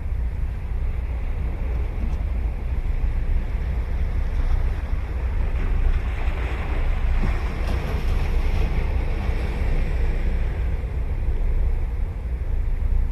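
Ocean surf breaking and washing up the beach, with one wave swelling to a louder hiss about halfway through before falling back. Wind buffets the microphone with a steady low rumble underneath.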